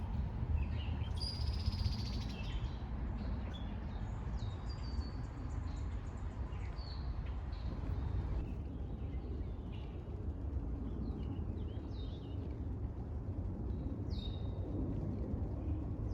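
Small songbirds chirping and calling in short, high notes scattered throughout, with a buzzy trill about a second in, over a steady low rumble.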